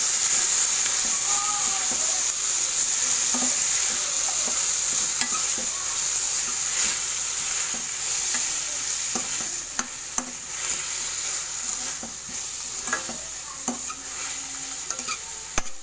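Chopped onions and tomatoes sizzling in butter in a metal pan while a spatula stirs and scrapes against the pan. The sizzle gets quieter about two-thirds of the way through, leaving sharper scrapes and clicks of the spatula.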